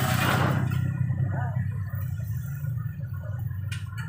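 A vehicle engine running steadily with a low rumble, with faint voices in the background.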